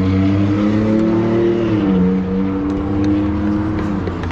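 Heavily loaded pickup truck's engine pulling under way: its note climbs, drops sharply about two seconds in as it shifts up a gear, then runs steady.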